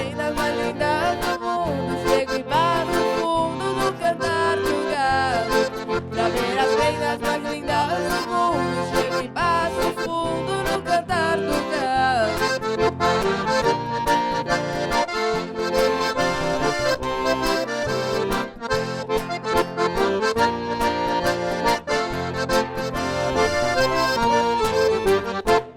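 Instrumental gaúcho-style music with an accordion carrying the melody over a steady rhythmic accompaniment.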